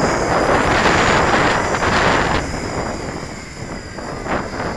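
Heavy gusts buffeting the microphone, easing off a little past halfway, over the faint high whine of a Tarantula X6 hexacopter's motors running hard.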